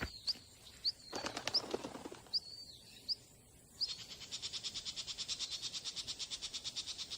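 Small birds calling with short high chirps, then, from about four seconds in, a fast steady chattering trill of about ten notes a second.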